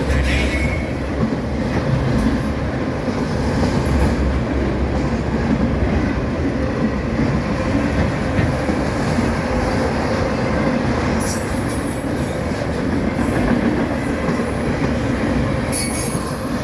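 CSX freight train cars rolling past, a steady rumble of steel wheels on rail, with brief high-pitched wheel squeals twice in the latter part.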